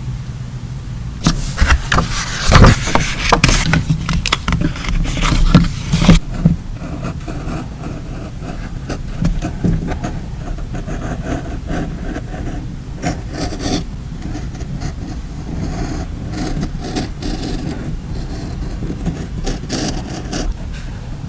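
Hands handling paper and stickers: loud, fast rubbing and scraping strokes for about five seconds near the start, then quieter rustles and small ticks over a steady low hum.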